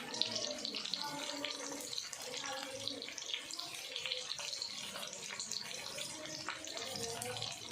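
Tap water running steadily and splashing, with faint voices in the background.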